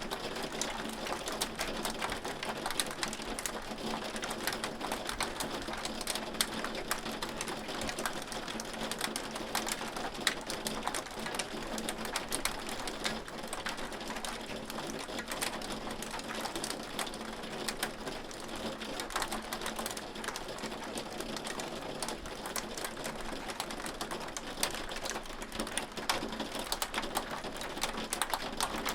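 Hailstones falling: a steady, dense patter of sharp, rapid clicks as the stones strike a hard surface.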